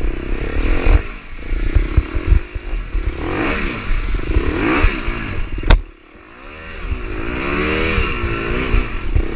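Dirt bike engine revving hard, its pitch climbing and falling again and again as the bike works its way up a muddy hill, with clattering knocks throughout. A sharp crack comes a little over halfway through, the engine drops for a moment, and then the revs build again.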